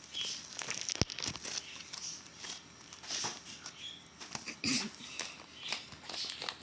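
Slime being squeezed and played with by hand: a run of small wet clicks and squelches, with one sharper click about a second in.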